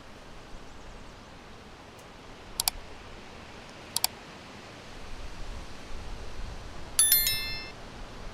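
Steady wind noise, with gusts of low rumble building about halfway through. Two sharp double clicks sound in the first half, and near the end a brief cluster of high, bright ringing tones, like a chime, is the loudest sound.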